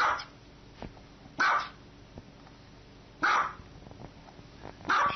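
Small dog barking: four short, high barks spaced about a second and a half apart.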